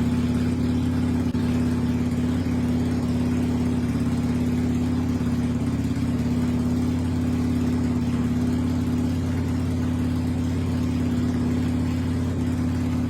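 1995 Harley-Davidson Sportster 1200's air-cooled V-twin engine running at a steady idle, holding an even pitch with no revs.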